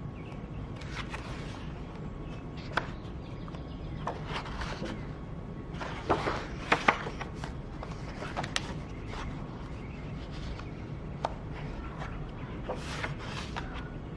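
Paper notebook pages being handled and turned: soft rustles and scattered light clicks and taps over a steady low background hum.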